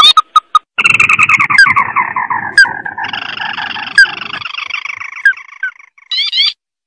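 Recorded crake lure call (burung tikusan mata merah). A few short rising notes open it, then comes a long chattering trill that falls in pitch for several seconds, and a quick burst of rising notes near the end.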